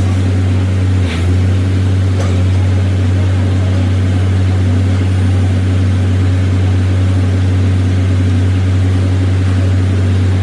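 Machine running with a steady deep hum, with faint clicks about one and two seconds in.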